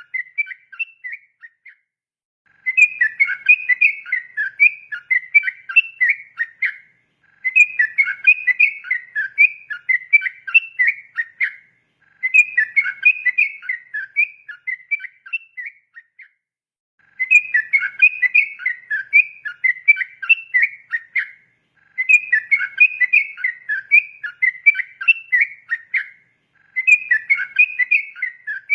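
Yellow-vented bulbul (trucukan) singing its rapid, chattering 'ropel' song in bouts of about four and a half seconds, repeated roughly every five seconds with a short pause between them.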